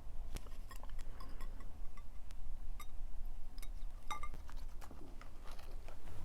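Scattered light clinks and taps of cutlery against plates and glassware, several with a brief ringing tone.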